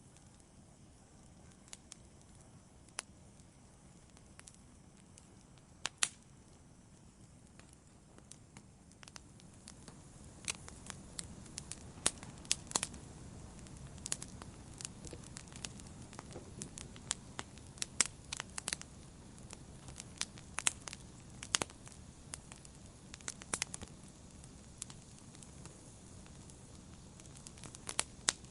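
Wood fire crackling, with sharp pops and snaps over a soft low rush of flame. The pops are sparse at first and grow busier and louder from about ten seconds in.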